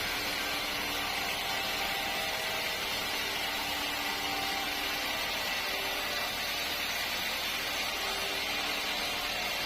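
Steady running noise of sawmill machinery: a constant hiss with a few faint steady hums beneath it, without breaks or changes.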